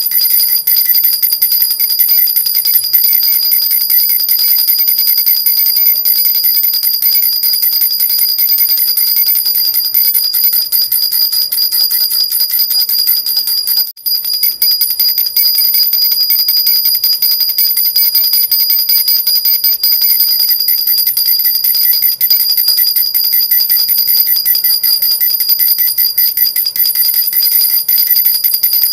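Silver jhunjhuna baby rattle shaken without pause: a steady, high-pitched metallic jingling, broken once for a moment about halfway through.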